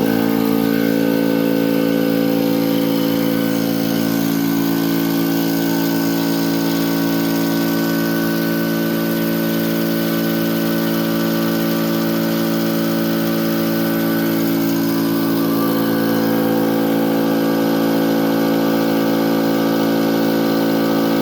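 21-gallon Harbor Freight air compressor running steadily, its electric motor and piston pump filling the tank with air, after its leaking pressure switch was replaced.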